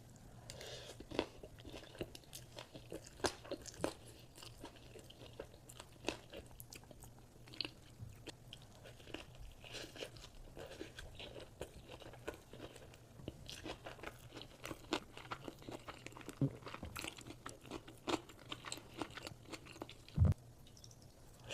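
Close-miked eating sounds: a person chewing and biting food, with irregular wet crunches and clicks. A louder single thud comes near the end.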